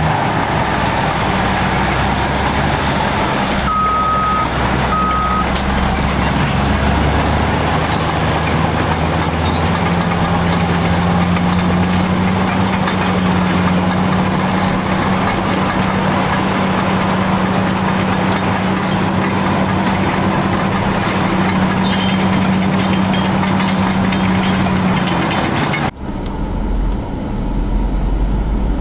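Caterpillar bulldozers' diesel engines running steadily under load, with two short beeps about four to five seconds in. Near the end the sound cuts abruptly to a duller, lower rumble.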